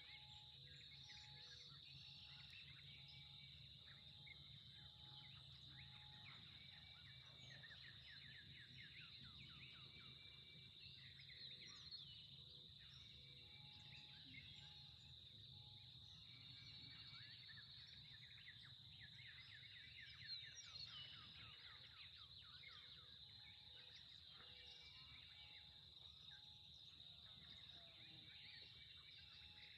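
Faint birdsong: many short chirps and trills from several birds, with repeated short lower notes, over a steady high-pitched drone.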